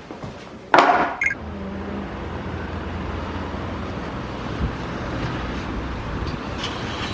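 Car engine starting with a short loud burst about a second in, then running at idle with a steady low hum.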